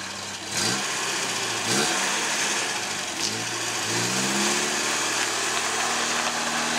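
1978 Triumph Spitfire 1500's four-cylinder engine revving up briefly twice as the car is manoeuvred slowly, then rising again and holding at a steady, higher engine speed for the last few seconds.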